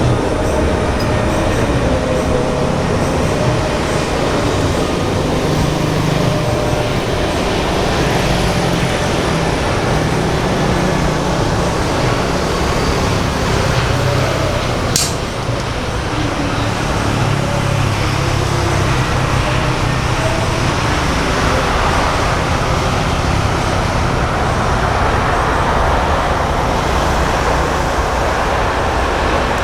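Steady, loud rumble of vehicle or engine noise, with a single sharp click about halfway through.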